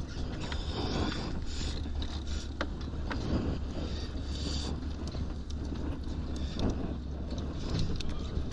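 Aboard a fishing boat at sea: a steady low rumble and wind on the microphone, with scattered creaks and short clicks from the boat and gear.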